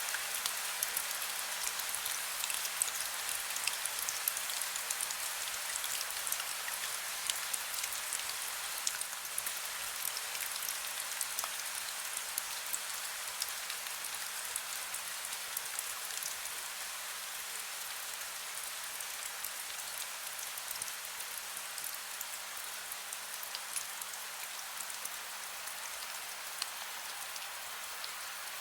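Heavy rain falling steadily: a dense hiss with many individual drops ticking sharply on a surface. It eases slightly toward the end.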